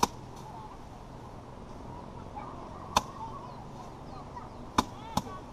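Bundles of rice paddy being beaten by hand to thresh off the grain: four sharp thwacks at irregular intervals, the last two close together, over faint bird chirps.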